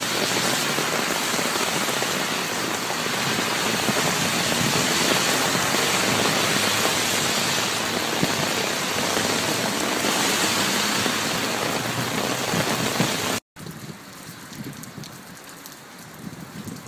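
Heavy rain hissing on a wet street, with car tyres swishing through standing water. It cuts off abruptly about thirteen seconds in, and fainter rain follows.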